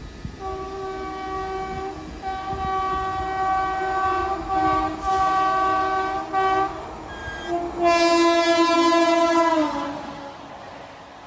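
Horn of a passing express train's locomotive, sounded in several blasts of a chord, then one long louder blast whose pitch drops as the train goes by, over the low rumble of the train.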